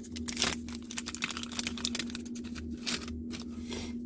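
A booster pack of trading cards being handled: its foil wrapper and the cards inside make a run of irregular small clicks and crinkles.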